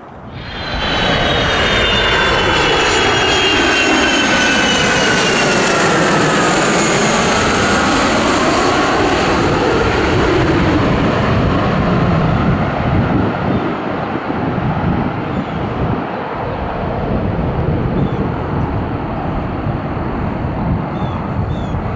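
Jet airliner passing close by: loud engine noise sets in within the first second, with a high whine that falls in pitch as it goes by, then steady engine noise.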